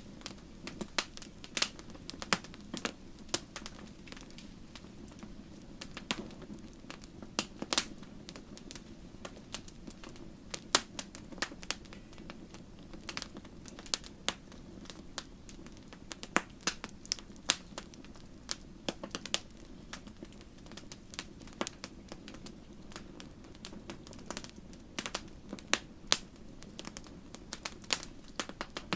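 Campfire burning with irregular sharp crackles and pops over a steady low hiss and rumble of the flames.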